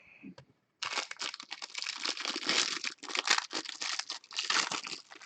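Plastic wrapper of a baseball card pack crinkling as it is handled and torn open: a dense run of irregular crackles starting about a second in.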